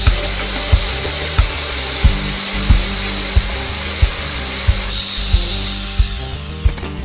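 Bosch GBH 5-40 D SDS-max rotary hammer drill running with a steady high whine, winding down about six seconds in. Background music with a steady beat plays throughout.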